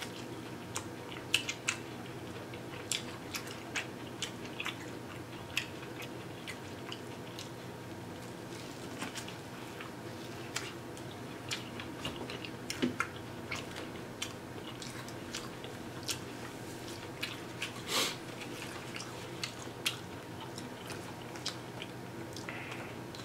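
A person eating close to the microphone: bites into corn on the cob and chewing, with many short, sharp wet mouth clicks and smacks scattered throughout over a faint steady hum.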